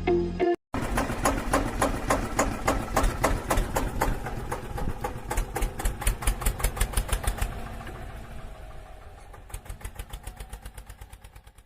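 Small electric motor and gear train of a homemade toy tractor running with a rapid, even clicking, growing fainter in the last few seconds and stopping at the end.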